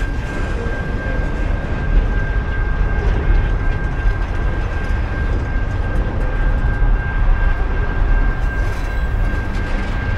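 Train running past at close range: a steady, heavy rumble with a continuous high-pitched whine over it.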